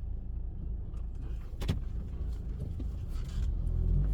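Car engine running with a low rumble, a single sharp click about a second and a half in, and the engine getting louder near the end.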